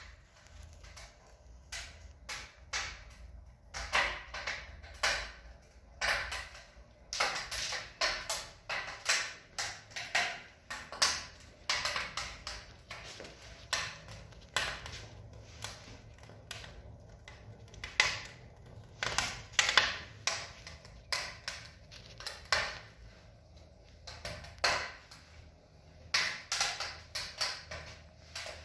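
Wood fire burning in a fireplace, crackling with irregular sharp pops and snaps, some in quick clusters, over a faint steady low rumble.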